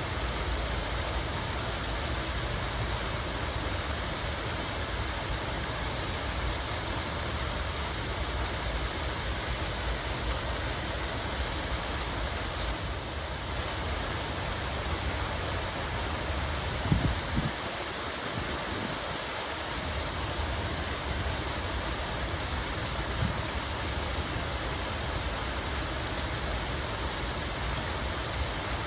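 Water running and splashing in a steady, even rush. Two brief low bumps break it just past the middle, the first the louder.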